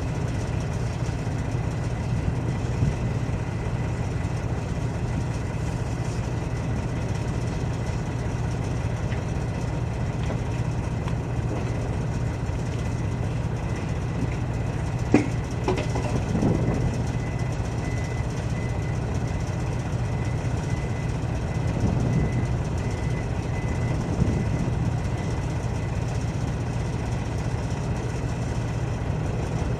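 Large diesel engine idling steadily, a low rumble, with one sharp metallic click about halfway through.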